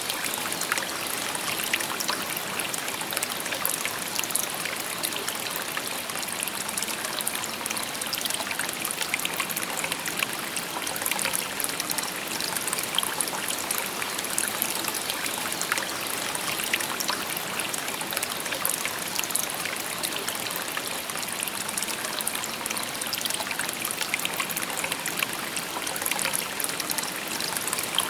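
Shallow river babbling over stones: a steady, even rush of water with many small splashes and trickles.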